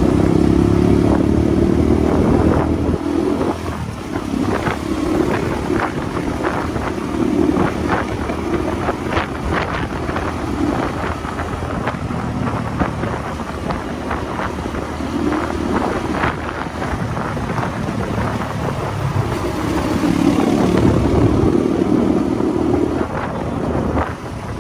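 Motorcycle engine running while riding, louder under throttle at the start and again about twenty seconds in, with a run of short rattling clicks in the middle.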